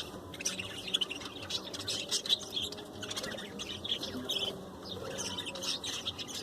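Budgerigars chattering and chirping, many short overlapping calls with no pause.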